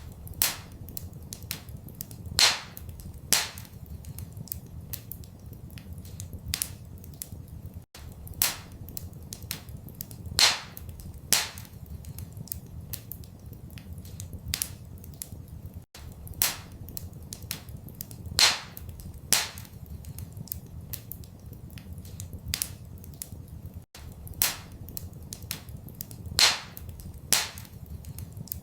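Wood fire crackling in a fireplace: irregular sharp pops and snaps, a few louder cracks among them, over a steady low rumble. The same eight seconds of crackle repeat as a loop, with a tiny gap at each joint.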